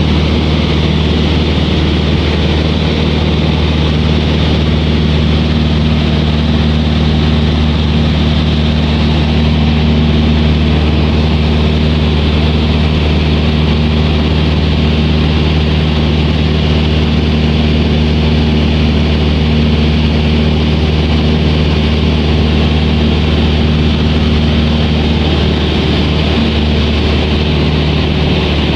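Light propeller aircraft's piston engine droning at a steady pitch in flight, heard from inside the cabin, with a constant hiss over it.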